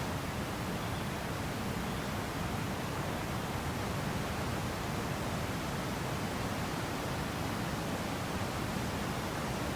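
Wind blowing through a wheat field, the stalks rustling in a steady, unbroken hiss.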